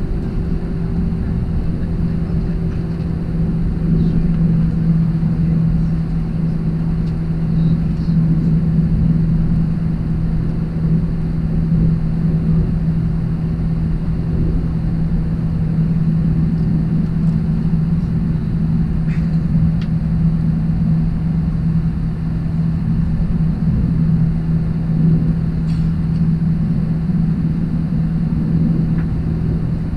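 Airbus A321-200 cabin noise: the jet engines hum steadily with a constant low tone over a low rumble, heard from inside the cabin.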